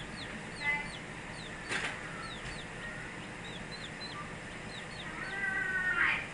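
Baby Barred Plymouth Rock chicks peeping: a steady stream of short, high, falling cheeps, with brief rustling bursts about two seconds in and again near the end.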